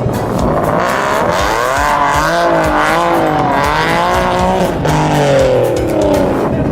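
A car accelerating hard with tire squeal, its pitch wavering up and down for a few seconds, then a second note gliding downward near the end.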